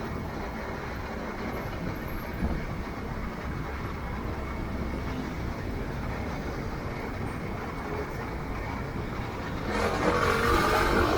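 Motorcycle on the move: a steady rumble of engine, road and wind noise, growing louder near the end.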